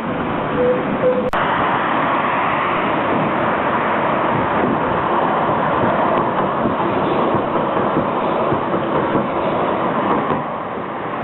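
Tram running on street rails: a steady noise of wheels on track. A faint whining tone stops about a second in, just before a single sharp click.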